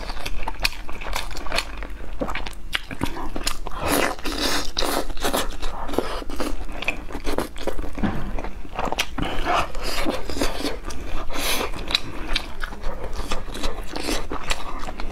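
Close-miked chewing and biting of braised meat: a steady run of short mouth clicks and smacks.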